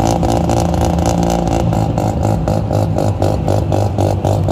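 Mazda RX-7 rotary engine running, with a rapid, even pulsing.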